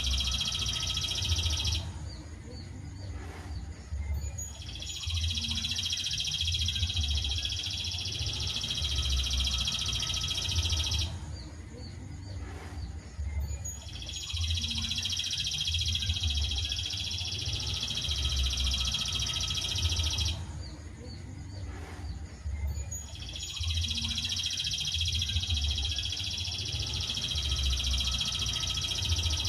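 Recorded songbird song played as masteran tutoring audio: dense, rapid, high-pitched chattering song in phrases of about six seconds, each followed by a pause of about three seconds, repeating evenly like a loop.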